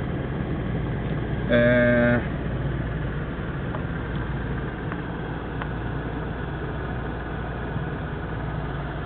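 1993 Kia Pride's 1.3-litre four-cylinder engine idling steadily with the air conditioner running. About a second and a half in, a horn sounds once for just over half a second, louder than the engine.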